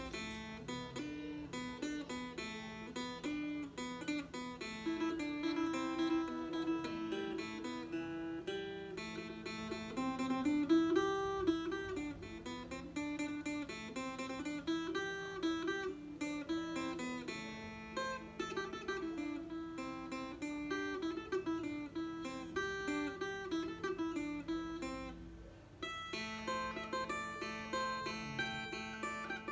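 Acoustic phin (Isan Thai lute) plucked, playing a melody over a steady drone string. There is a brief drop about three quarters of the way through, then the playing resumes.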